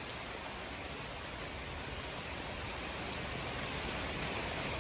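Steady hiss of rain from an oncoming thunderstorm, slowly growing louder.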